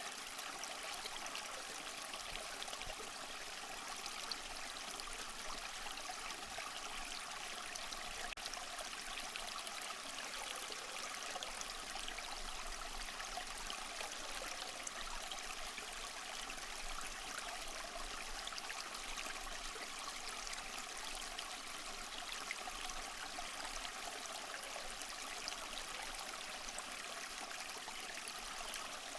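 Small waterfall splashing and trickling over moss-covered rocks: a steady, even rush of running water.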